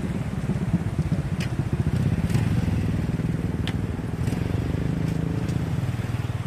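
A vehicle engine running steadily, its pitch rising a little midway and easing off near the end, with a few sharp clicks over it.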